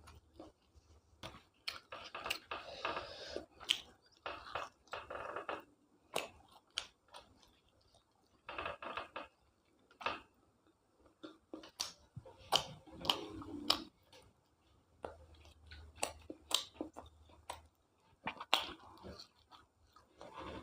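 Close-up chewing of a curry-and-rice meal, with many sharp wet mouth clicks coming in irregular bursts.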